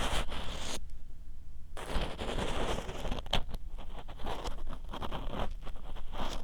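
Ear pick scraping and crackling in the ear of a 3Dio binaural microphone, with a pause of about a second near the start.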